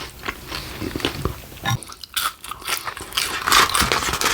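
Crunchy food being bitten and chewed close to the microphone: a run of irregular crackling crunches.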